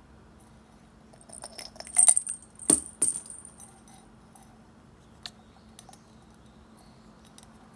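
Small metal bird-toy bell jingling and clinking in a short flurry of strokes. The loudest rings come about two and three seconds in, and a few faint ticks follow.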